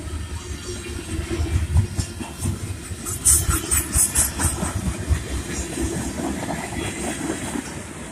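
Freight train cars (covered hoppers and tank cars) rolling past close by: steel wheels rumbling and clattering over the rail joints and crossing, with irregular heavy clunks and brief high squeals about three to four seconds in.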